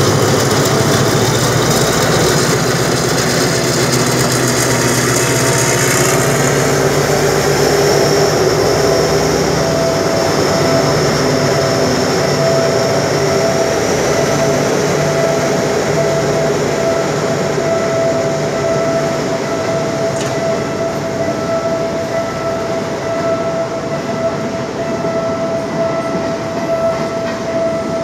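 State Railway of Thailand diesel passenger train passing close beneath, its engine drone loudest in the first few seconds. As the coaches roll by, wheels and rails take over with a steady high squeal.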